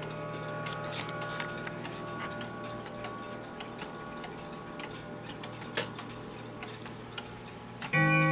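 Howard Miller grandfather clock ticking while the notes of its last chime ring on and fade. About eight seconds in, the next chime notes strike loudly.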